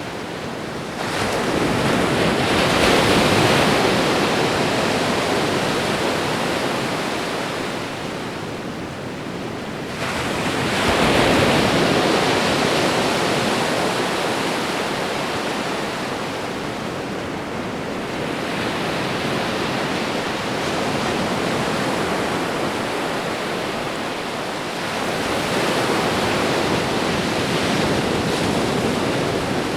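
Ocean waves breaking and washing up on a shore, the surf swelling and falling away in slow surges, with the largest breakers about a second in, about eleven seconds in and near the end.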